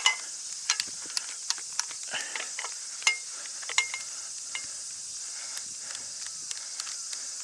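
Scattered sharp clicks and metallic clinks of equipment being handled and worked at, two of them ringing briefly about three and four seconds in, while something is stuck in it. A steady high insect drone runs underneath.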